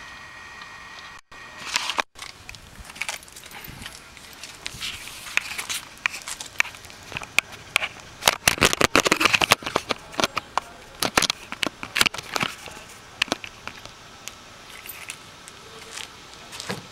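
Irregular clicks, scrapes and crackling, densest in the middle, with two brief dropouts near the start; no engine is heard running.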